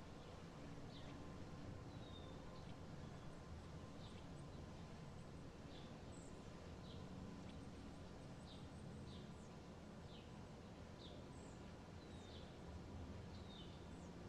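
Faint bird chirps: short, mostly downward-sweeping calls, one or two a second, over a low steady hum.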